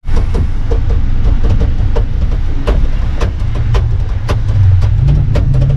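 A motor vehicle driving, a heavy low rumble of engine and road with frequent irregular rattling clicks. The engine note rises slightly about five seconds in.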